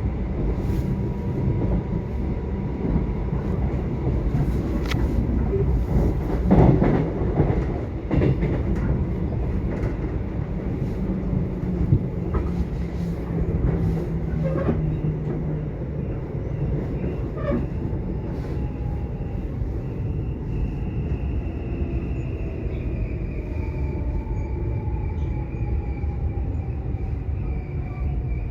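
Subway train running: a steady low rumble of wheels on track with scattered knocks from rail joints, a louder clatter about six seconds in. In the second half, thin whining tones slowly fall in pitch.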